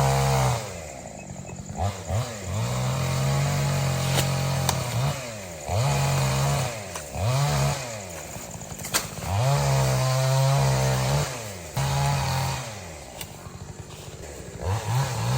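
Two-stroke chainsaw throttled up and down over and over, held at high revs for a second or two at a time and falling back toward idle in between, about eight rises in all.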